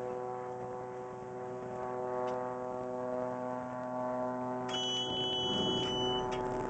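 Propeller airplane droning overhead: a steady hum with many overtones. A high electronic beep sounds about five seconds in and lasts about a second and a half.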